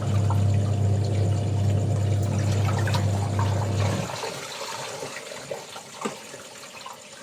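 A motor hums steadily while water rushes, both cutting off about four seconds in and leaving water trickling and splashing. A faint, steady high insect chorus runs underneath.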